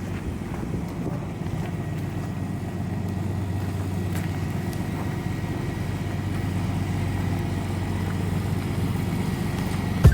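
An engine running steadily with a low, even note, slowly getting louder.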